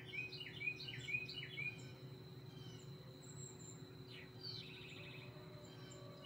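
Birdsong: a series of short, quick chirping notes, with a rapid trill about four and a half seconds in, faint over a low steady hum.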